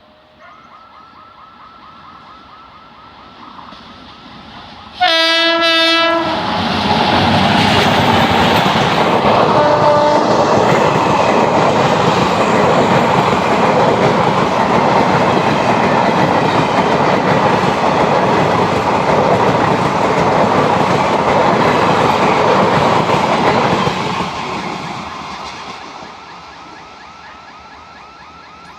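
A train approaches and sounds its horn about five seconds in, one blast about a second long. It then passes close by with a loud steady rush of wheels on rails, a short second toot about ten seconds in, and fades away near the end.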